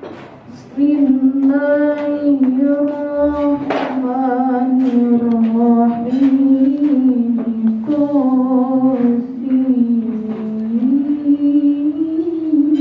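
Female Quran reciter chanting in a melodic, ornamented style. The voice comes in about a second in and holds long drawn-out notes that waver and slide up and down in pitch.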